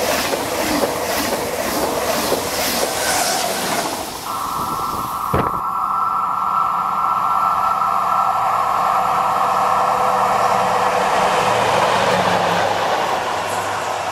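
High-speed TGV trainset rolling past close by, its wheels beating rhythmically over the rail joints. From about four seconds a steady high-pitched wheel squeal on the tight curve takes over. A low hum of approaching diesel locomotives runs under it.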